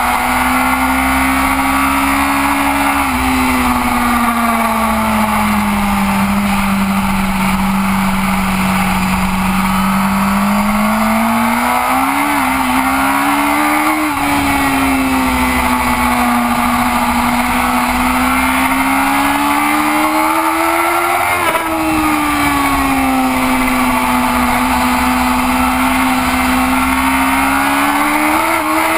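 Onboard sound of a BMW race motorcycle's engine at racing speed. Its pitch sags and climbs as the rider rolls off and accelerates through the corners, with sudden steps at gear changes about three seconds in, around the middle and about two-thirds through, and rises again near the end. A heavy rush of wind lies under it.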